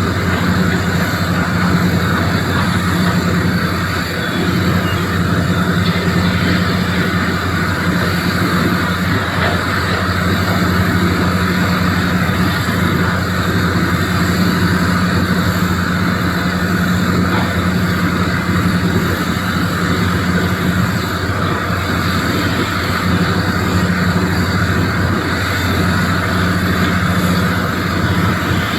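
Doosan DX390 excavator's diesel engine running steadily at a constant speed, a low even drone with no clear impacts.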